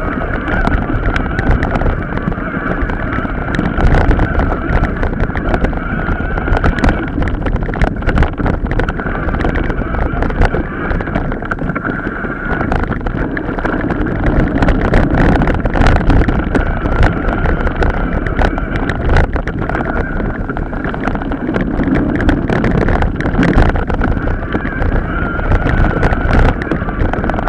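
Mountain bike ridden over rough off-road ground: continuous rattling and irregular knocking from the bike and tyres over bumps, with a steady high whine underneath and some wind on the microphone.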